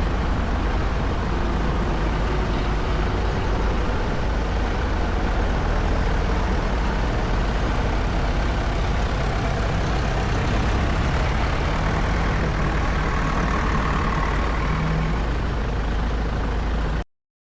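Tractor engines running steadily, with a heavy low rumble. The sound cuts off abruptly near the end.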